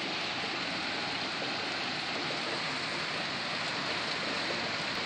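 Heavy rain falling steadily, a constant even patter of large drops.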